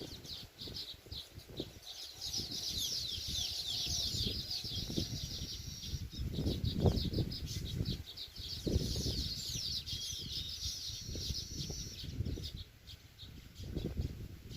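Weaver birds chattering at their nests: a dense run of fast, high, slightly falling chirps, thickest through the middle and thinning near the end, over uneven low buffeting.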